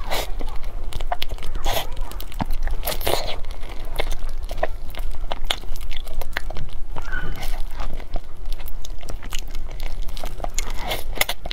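Close-miked wet mouth sounds of someone biting and chewing soft, creamy durian flesh: squelching chews with many small lip and tongue smacks, and now and then a light crinkle of a plastic glove.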